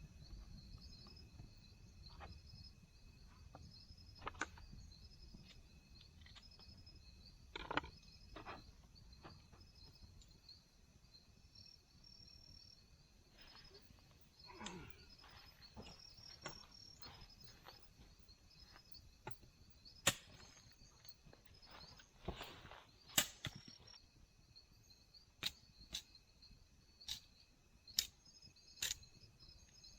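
Insects chirping in a steady, repeating pulse, with sharp knocks and clicks scattered through it that come about once a second near the end.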